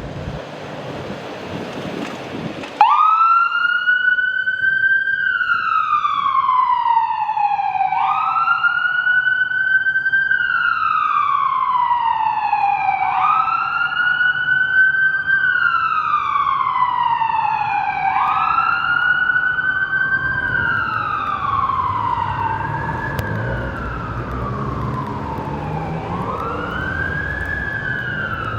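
Emergency vehicle siren wailing, starting suddenly about three seconds in. Its pitch sweeps up and then slides slowly back down, over and over every few seconds, under a haze of street noise.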